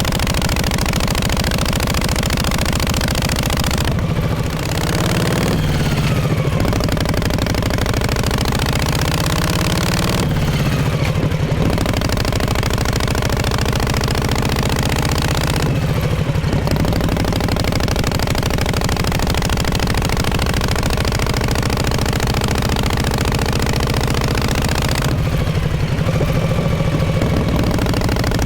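1948 Harley-Davidson Panhead's V-twin engine running through its exhaust. Its engine speed falls and climbs back up several times.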